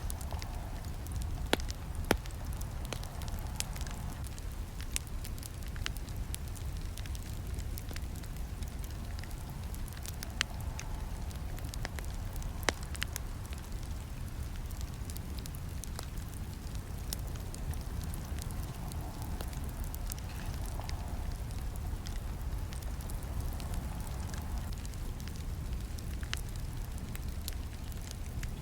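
Campfire burning: a steady low rumble of flames under frequent sharp crackles and snaps. A few louder pops come in the first few seconds and again near the middle.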